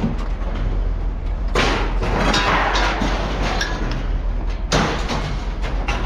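Pieces of scrap metal thrown down onto a pile, landing with heavy crashes about a second and a half in and again near five seconds, with clattering in between. A steady low rumble runs underneath.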